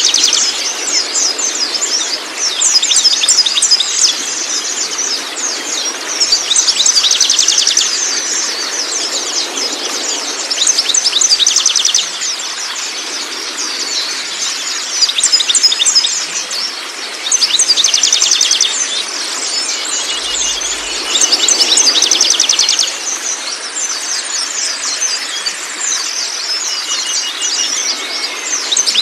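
Songbirds singing continuous chattering, twittering song, with a louder rapid trilled phrase every three to four seconds, over a steady hiss of running water.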